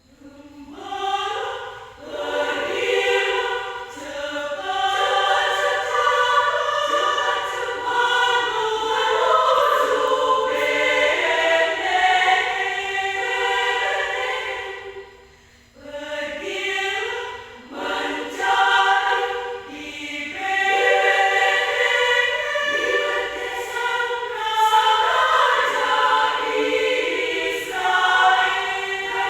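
Adult women's choir singing in parts, in phrases, with a short pause about halfway through.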